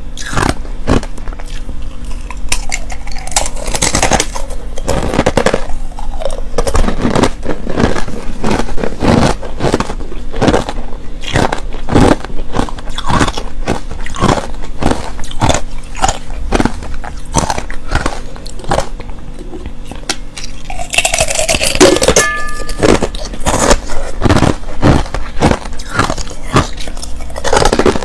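Close-up crunching of clear and powdery crushed ice being bitten and chewed, a rapid run of sharp crunches several a second. There is a louder, harsher crunch about three-quarters of the way through.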